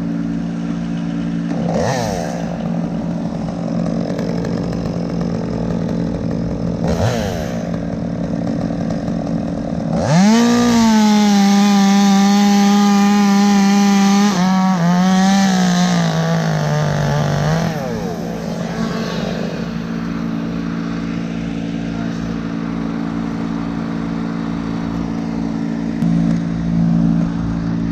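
Chainsaw idling with two short blips of throttle, then revved to full speed about ten seconds in and held for several seconds, its pitch stepping down before it falls back to idle. A steady engine hum runs underneath.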